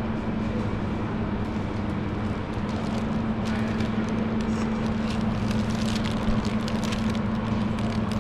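Metro station ambience: a steady low hum and rumble, with scattered light clicks and clatter from about three seconds in.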